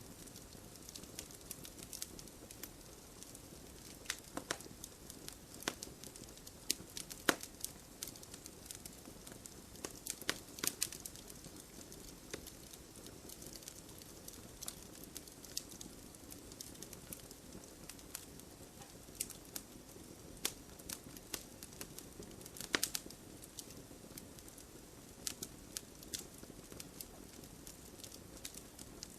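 Wood campfire burning with a steady low rush and irregular crackles and sharp pops, a few louder pops standing out.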